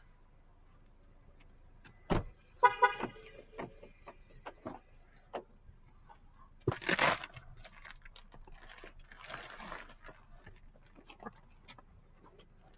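A car door thumps shut and the car's horn gives a short chirp as it locks. A few seconds later there is a brief burst of rustling, with scattered small clicks and scuffs around it.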